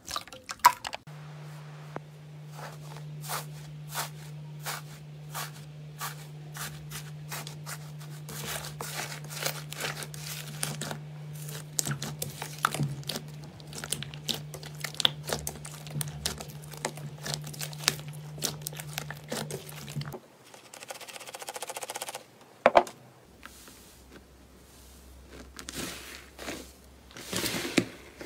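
Crunchy slime being played with, giving dense, irregular crackles and pops. A steady low hum runs under the crackling until about two-thirds through. Near the end there is a single loud click, followed by more crackling.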